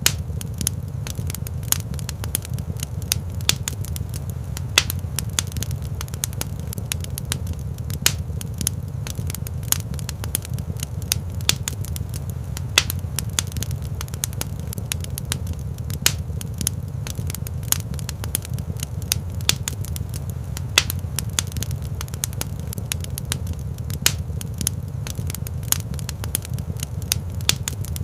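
Wood fire crackling in a stone fireplace: frequent sharp, irregular pops and snaps over a steady low rumble.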